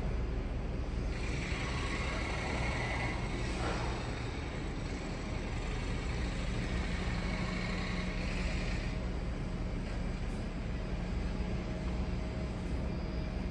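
Standing train at a station platform: a steady low hum and rumble, with a hiss that comes in about a second in and fades away around nine seconds.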